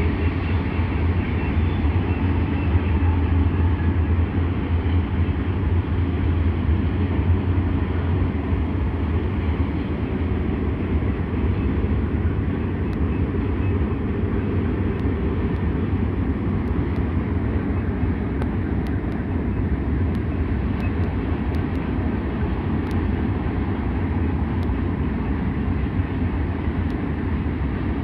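BNSF freight train rolling past with a steady low rumble, easing a little after about ten seconds.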